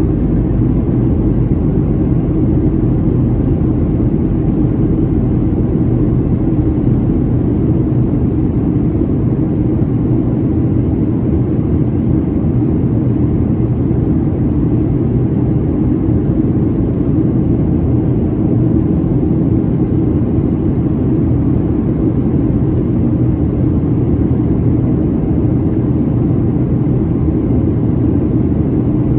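Steady low rumble of a Boeing 737-700's CFM56 jet engines and rushing air, heard inside the cabin during descent.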